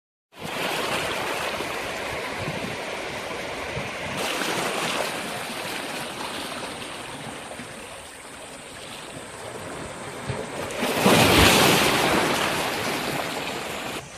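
Sea waves washing onto the shore, with a bigger wave breaking loudly about eleven seconds in.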